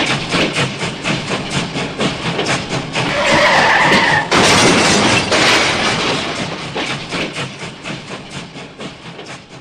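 An engine running with a fast, even chugging, growing louder about three seconds in and then fading away near the end.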